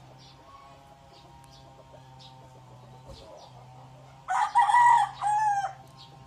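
Red junglefowl (labuyo) rooster crowing once, a short crow in two parts starting about four seconds in. A steady low hum and faint high chirps run underneath.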